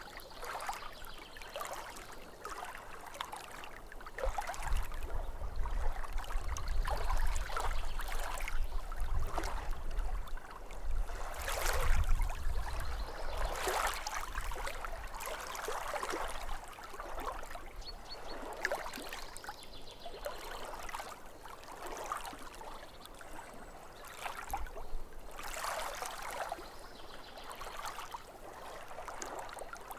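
Small waves lapping and splashing at a lake shore in an irregular wash, louder with a low rumble for several seconds in the first half.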